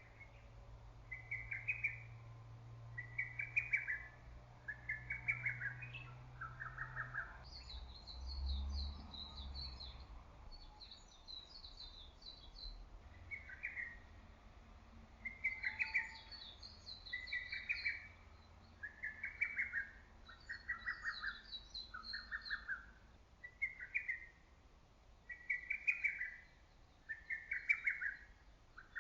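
Lesser cuckoo singing its short, loud phrase over and over, about one phrase every second and a half, with a pause of several seconds a quarter of the way in. A second, higher-pitched bird twitters in bouts between the phrases.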